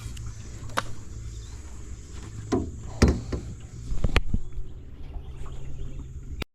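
A few sharp knocks and thumps on a fishing boat, the loudest about three seconds in, over a steady low hum. The sound cuts off suddenly just before the end.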